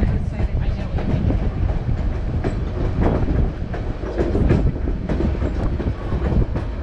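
White Pass & Yukon Route narrow-gauge passenger train running along the line, with a steady low rumble and irregular clicks and clatter of the wheels on the rails, heard from the car's open end platform.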